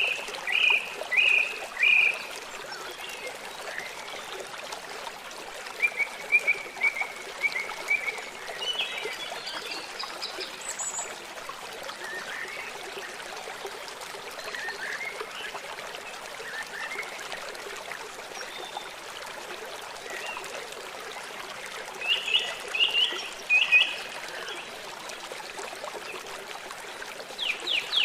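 Songbirds chirping in short, separated phrases of a few quick notes over a steady background of running water. A fast trill starts near the end.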